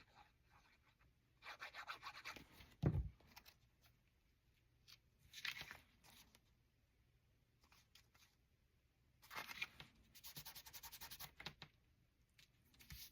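Paper being handled and rubbed on a craft table: a few short rustles, a single soft thump about three seconds in, and a run of quick rubbing strokes near the end.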